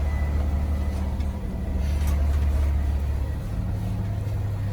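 Charter bus engine running, heard from inside the cabin as a steady low drone; its note steps up about three and a half seconds in as the engine speeds up.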